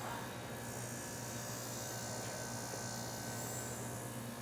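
Refrigeration system running with a steady low hum.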